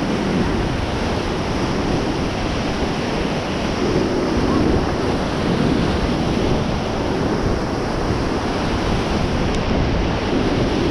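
Loud, steady rushing of river whitewater as a raft runs a rapid, with wind buffeting the microphone.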